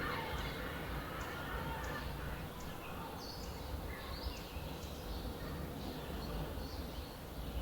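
Morning outdoor ambience: scattered short bird chirps and calls over a steady low rumble. A louder bird call fades out right at the start.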